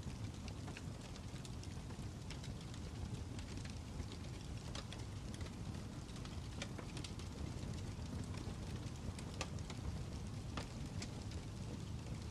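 Fire crackling: irregular sharp pops and snaps over a steady low rush.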